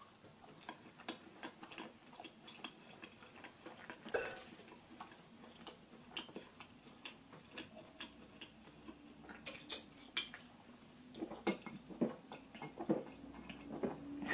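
Close-miked chewing of a sauce-coated fried chicken drumstick: a run of many small, soft clicks and smacks. From about eleven seconds in, louder gulps as cola is drunk from a can.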